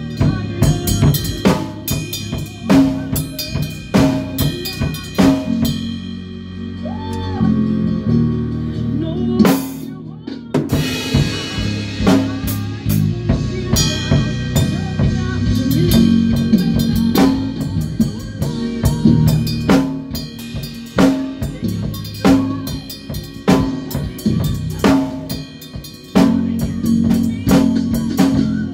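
A band playing: a drum kit keeps a steady beat over sustained bass notes. About ten seconds in the low end drops out briefly, then a cymbal crash rings and fades.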